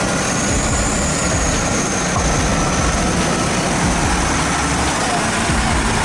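Heavy truck engine running steadily, with dense, even mechanical noise.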